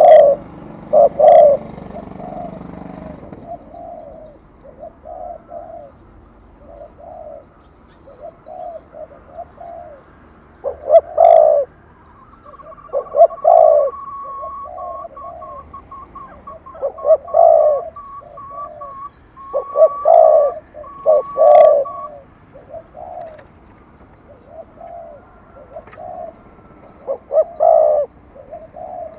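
Spotted dove cooing in the 'thổ thúc gù' call style: repeated phrases of short, low coos, loud, with pauses of a second or two between groups.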